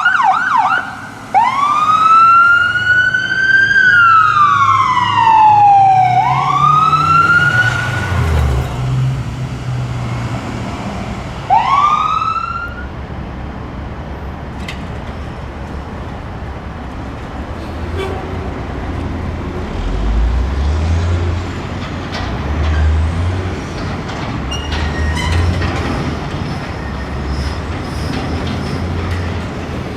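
Emergency vehicle siren on a responding fire or medic unit. It gives a fast yelp for the first second, then a slow wail that rises, falls and rises again, and one short rising whoop about twelve seconds in. Then it gives way to the low running of engines and road traffic.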